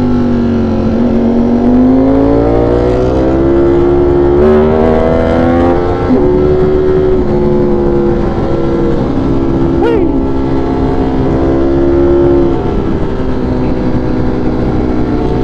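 V4 sport motorcycle engine pulling under throttle while riding, its pitch rising over the first few seconds and then holding high, with a brief dip about six seconds in, over steady rumble and wind rush.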